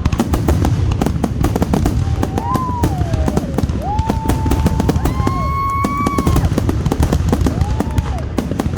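Fireworks show: dense, rapid crackling and bangs over a continuous low rumble of bursts. Several drawn-out, gently bending high tones ring over the top.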